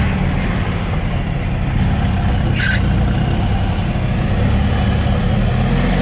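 Engine of an off-road vehicle idling steadily, heard from inside its cab, with a brief high squeak about halfway through.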